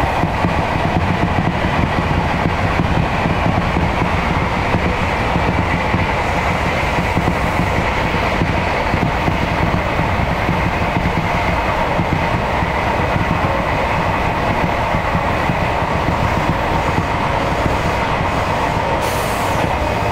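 Meitetsu Airport Line electric train running steadily along the track: a continuous rumble of wheels and running gear with a faint steady whine on top.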